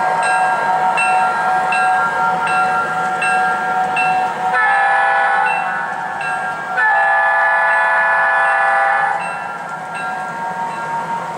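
O-scale model locomotive's onboard sound system playing a ringing bell, struck about every 0.7 seconds, with two horn blasts: a short one near the middle and a longer one of about two seconds after it.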